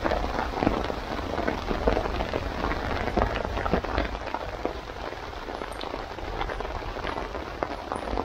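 Heavy rain pouring down on a tarp overhead: a steady hiss broken by many separate drop impacts.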